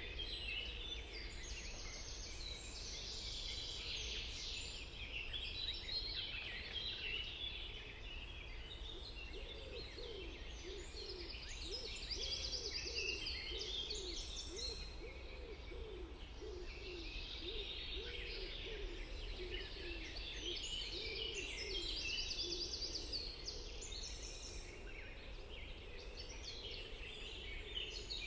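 Many songbirds singing over one another in a dense dawn-chorus-like mix. From about ten seconds in, a lower call repeats roughly once a second for about ten seconds beneath the song, over a faint steady low rumble.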